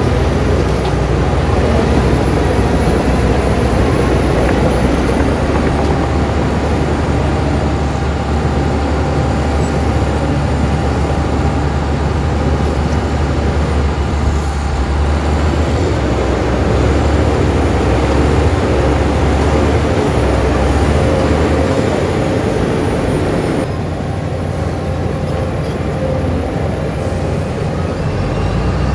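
Heavy diesel earthmoving machinery running steadily and loudly, with a deep engine hum and rough mechanical noise; the sound thins a little about two-thirds of the way through.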